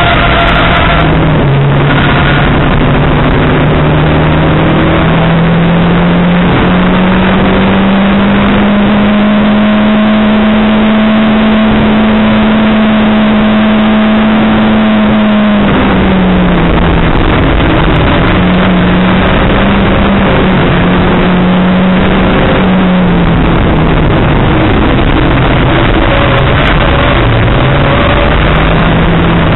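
Racing hatchback's engine heard from inside the caged cabin under load on track, its pitch climbing slowly for about fifteen seconds, then dropping sharply and running at varying lower revs through the corners. Heavy road and wind noise runs beneath it.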